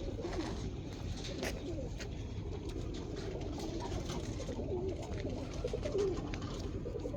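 Roller pigeons cooing, several low wavering coos overlapping, with a few light clicks, the clearest about a second and a half in.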